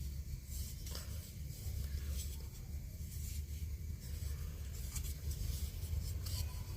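A tool scraping on wood in short, irregular strokes, over a steady low hum.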